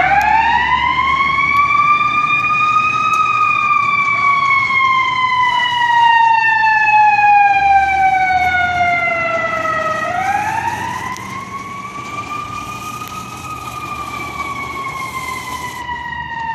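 Fire truck siren winding up to a high wail, then slowly sliding down in pitch for several seconds. About ten seconds in it is wound up again and starts another slow fall. A low truck engine rumble runs underneath.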